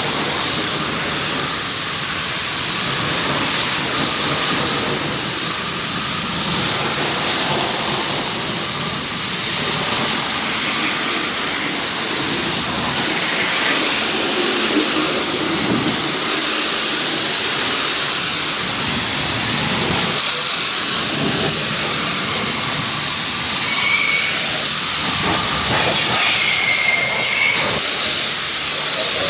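Pressure washer's water jet spraying in a steady loud hiss, with a couple of brief high squeaks near the end.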